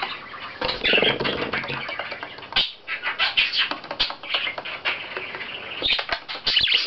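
Pet budgerigar chattering and warbling in a fast, scratchy stream, with many sharp clicks and taps as it plays with a weeble toy.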